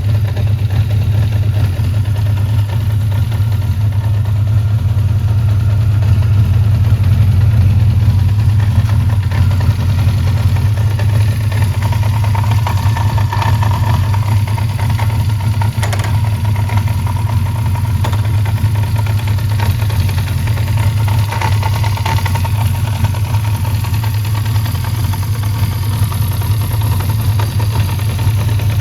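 Honda CB400F's air-cooled 408cc inline four-cylinder engine idling steadily through its four-into-one exhaust.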